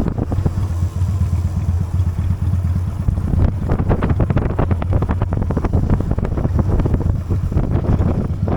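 Honda Steed V-twin motorcycle engine running under way, a steady low drone that turns into a quicker, choppier pulsing about three and a half seconds in.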